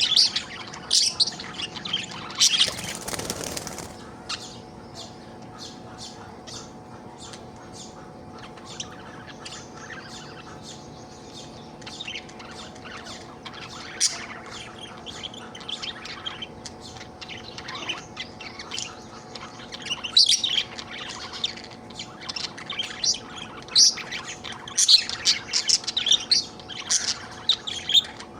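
Budgerigar chirping and warbling in quick, irregular runs of short high notes, busiest near the start and again over the second half. There is a brief rustle about three seconds in.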